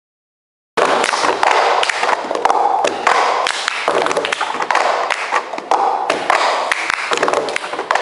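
Cup-game rhythm: cups knocked and slapped on a table, mixed with hand claps, over voices. It starts abruptly a little under a second in.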